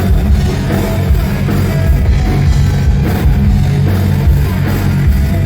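Loud hard rock music with a drum kit and electric guitars, playing steadily.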